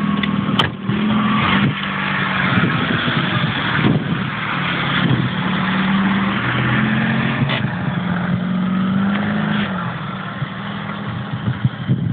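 Fiat Cinquecento 700's small two-cylinder engine revved hard during a drift, its note rising and falling in steps over a steady hiss of tyres and road noise.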